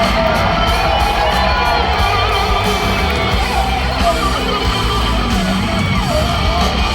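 Live rock band playing an instrumental passage, a lead guitar line with bent and wavering notes over bass and drums, with crowd yells.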